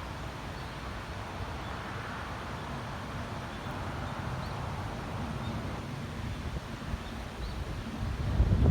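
Wind outdoors, a steady rush with low rumbling buffeting on the microphone that grows louder near the end. A few faint, short high chirps recur about once a second.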